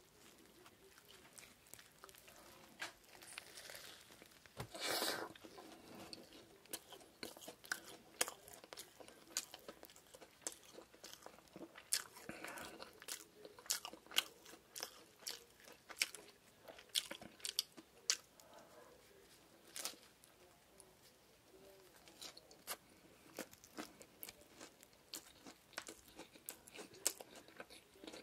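Close-miked chewing of a Lotteria shrimp burger with its fried, breadcrumbed shrimp patty, with frequent sharp crunches at irregular intervals. The loudest crunch comes about five seconds in.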